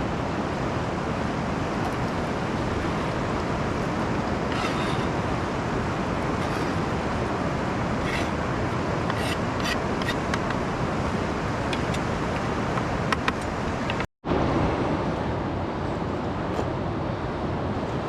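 Steady rushing of river rapids, with a few faint clicks over it. The sound cuts out for an instant about fourteen seconds in.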